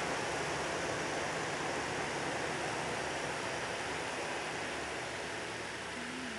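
2012 Toyota Tundra's engine running at idle, a steady rushing noise with a faint low hum underneath.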